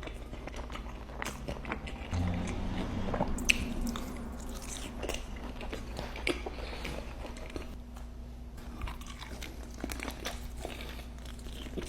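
Close-up eating sounds: crispy fried bone-in chicken wings being bitten and chewed, with scattered crunches and wet chewing.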